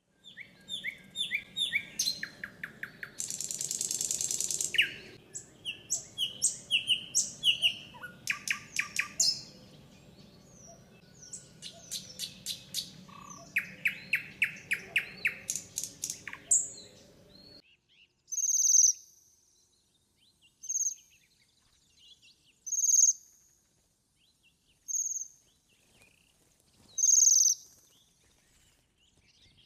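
Songbirds singing: a dense run of varied high chirps, quick trills and whistles. About two-thirds of the way in it cuts off abruptly to a quieter scene, where one short high bird call repeats about every two seconds.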